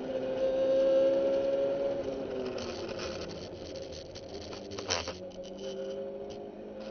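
Honda S2000 AP2's 2.2-litre four-cylinder engine, heard from inside the cabin. It runs at high revs, then its pitch falls as the car brakes hard from high speed for a corner. A sharp knock comes about five seconds in, and the engine then runs on at a lower, steady note.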